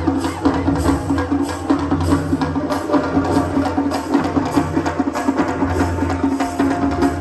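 Live concert music played through a sound system, with percussion keeping a steady beat of about two strokes a second over a low bass line.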